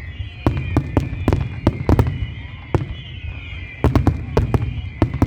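Fireworks display: a dozen or more sharp shell bursts going off in quick, irregular succession over a continuous low rumble.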